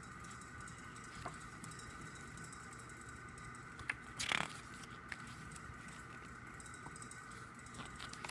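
Paper handling as a photobook's pages are turned: scattered light clicks and taps, with one short page-swishing rustle about four seconds in, over a steady faint hum.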